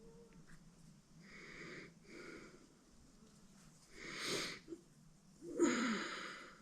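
A person's breathing close to the microphone: four breaths, the last two louder.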